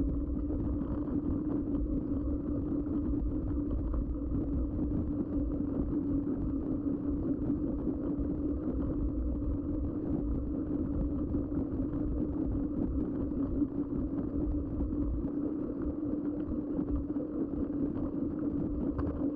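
Steady hum of a mountain bike rolling at constant speed, its Schwalbe knobby tyres humming on the ground, with low wind rumble on the camera microphone.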